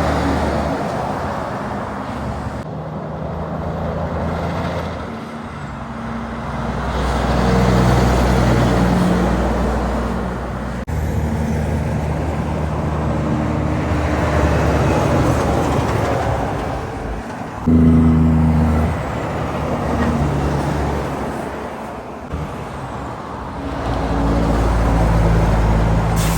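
Heavy trucks and other traffic passing one after another on a highway, their diesel engines and tyre noise swelling and fading with each pass. A sudden louder burst of engine sound comes about two-thirds of the way through.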